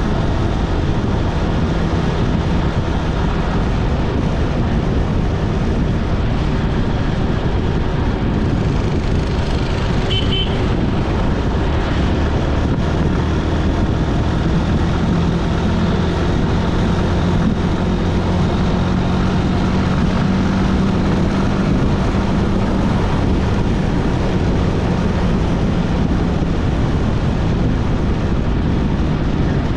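A motor vehicle running steadily on a road during a ride, its engine hum mixed with constant wind and road noise. A brief high chirp sounds about ten seconds in.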